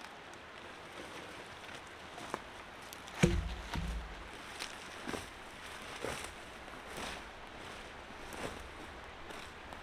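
A heavy thump about three seconds in, then footsteps crunching on the forest floor, roughly one step a second.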